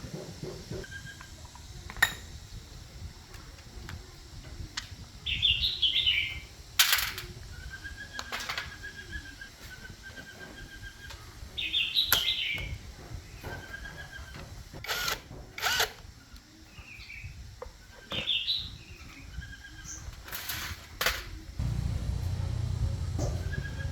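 Birds chirping and whistling at intervals over a low background hum, with a few sharp clicks or knocks; near the end a low rumble comes in louder.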